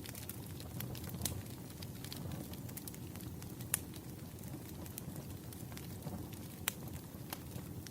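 Wood fire crackling: scattered sharp pops and snaps, three of them louder than the rest, over a steady low rumble.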